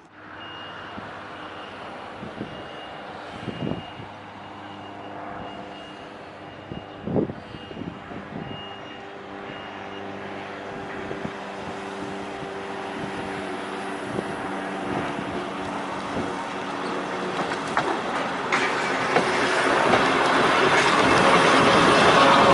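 Volk's Electric Railway electric car on the move: a steady motor hum under running noise that grows louder throughout, building strongly near the end, with a few sharp knocks. A high beep repeats about once a second for the first ten seconds.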